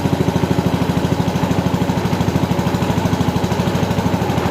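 Small engine running steadily with a fast, even putter that does not change in speed.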